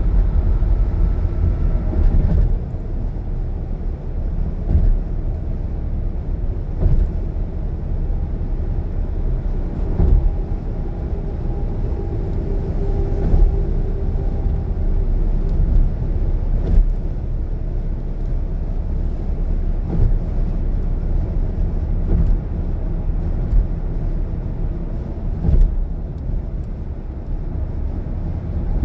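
Car driving on a highway: steady low road and engine rumble with occasional short thumps.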